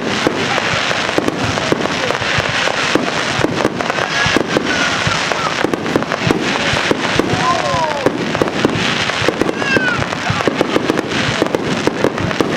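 Fireworks display: a dense, continuous run of rapid cracks and pops, with a few short falling whistle-like tones among them.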